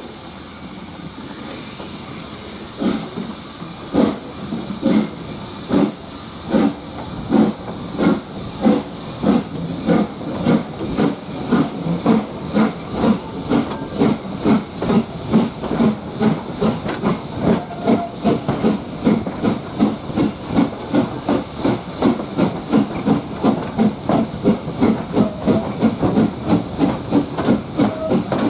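LSWR S15 class 4-6-0 steam locomotive No 506 pulling away, its exhaust beats starting about three seconds in and quickening from about one a second to about two a second over a steady steam hiss.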